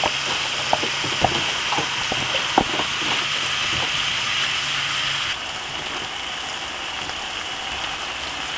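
Pork belly and kimchi sizzling in a hot pan, a steady hiss with scattered crackling pops in the first few seconds; about five seconds in the sizzle drops to a quieter, even hiss.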